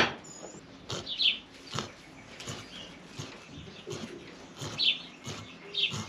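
A few short, falling high chirps from a small bird over soft, irregular knocks and rustling.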